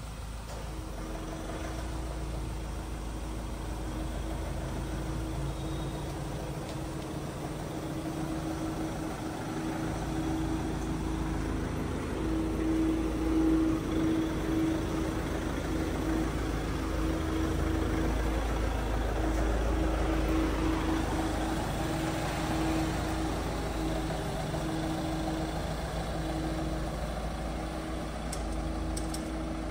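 Mahindra Thar's engine running at idle, a steady hum with a low rumble that grows somewhat louder in the middle.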